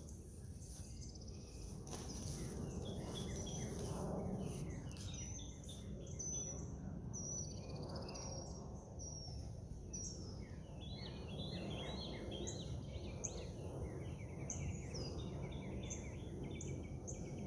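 Small wild birds chirping and singing, many short high notes and repeated whistles, over a steady low outdoor rumble.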